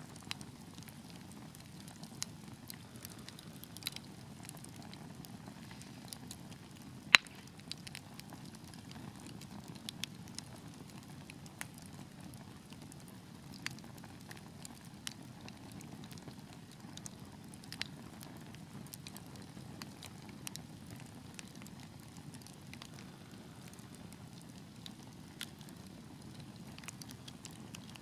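Wood fire crackling in a fireplace: a steady low rumble of the flames with scattered small pops and snaps, and one sharp, much louder pop about seven seconds in.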